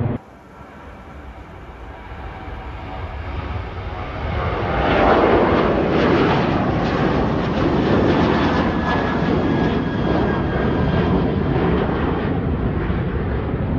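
Departing airliner's engines at takeoff power. The roar builds over the first five seconds, then holds loud and steady with a faint high whine in it.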